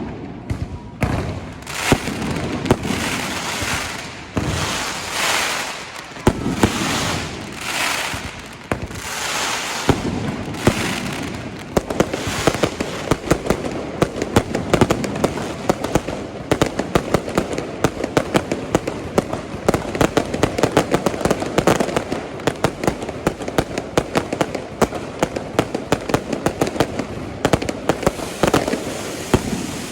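Fireworks display: shells bursting with crackling, hissing trails about once a second or so, then from about twelve seconds in a dense barrage of rapid cracks and pops.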